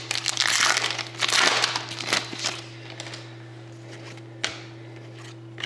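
A trading card pack's wrapper being torn open and crinkled, in dense crackling bursts over the first two and a half seconds. After that come a couple of light clicks as the cards are handled, over a steady low hum.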